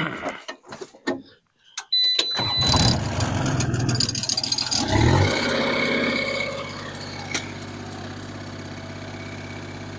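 A portable sawmill's gasoline engine being started: a few clicks, then it cranks and catches about two seconds in, runs fast and loud for several seconds, and settles to a steady idle near the middle.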